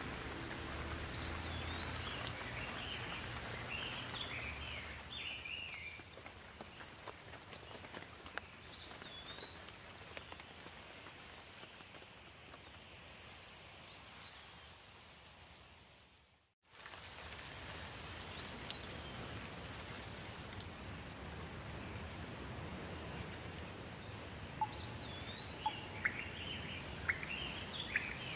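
Steady rain falling with birds chirping over it; the last of some soft music fades out in the first few seconds. About halfway through the rain fades out completely for a moment and comes straight back in, and a few sharp ticks sound near the end.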